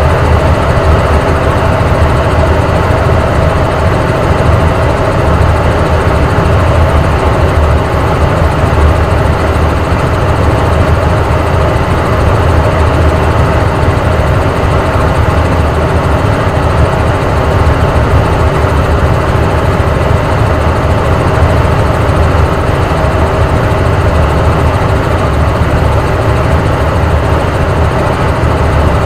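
Helicopter in flight, its engine and rotor running loud and steady, with a fast low throb from the rotor beneath a constant hum.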